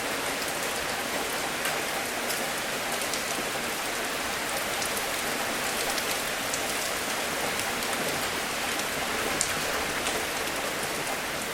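Steady rain, an even hiss with scattered drops ticking sharply on top of it.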